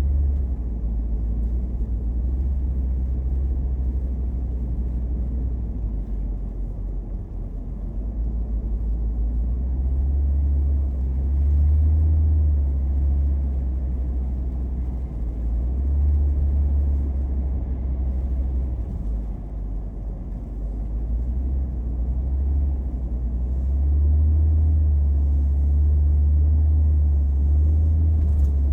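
Low road rumble of a car driving, heard from inside the cabin through a dash-mounted camera, swelling and easing every few seconds.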